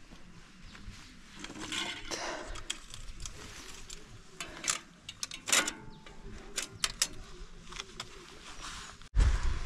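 Scattered light metallic clicks and clinks of a snapped bicycle chain being handled during a trailside repair, with a low thump near the end.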